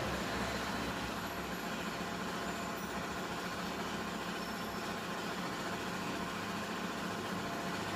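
A motor vehicle running steadily, with an even engine and road noise that holds throughout.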